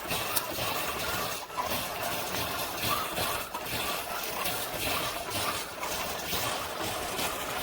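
Amazon Basics single-serve K-Cup coffee maker brewing: its pump pushing hot water through the pod with a steady hiss and uneven sputtering.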